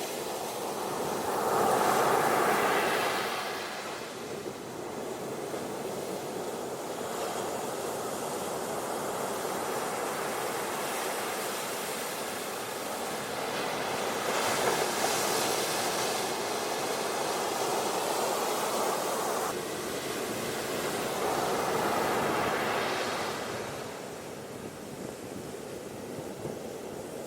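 Ocean surf washing onto a beach: a steady hiss of moving water with three swells as waves break, about two seconds in, around fifteen seconds and again around twenty-two seconds.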